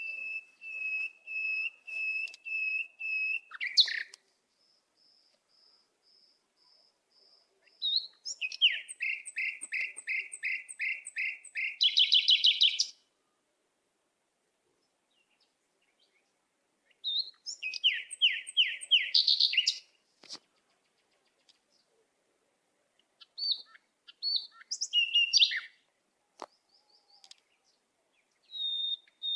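Bird song in separate phrases: a run of evenly spaced whistled notes at one pitch, then quick series of rapid down-slurred notes, with pauses of a few seconds between phrases.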